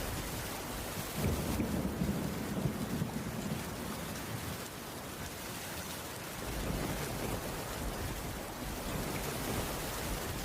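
Heavy rain falling steadily, with a low rumble of distant thunder swelling about a second in and fading out by the middle.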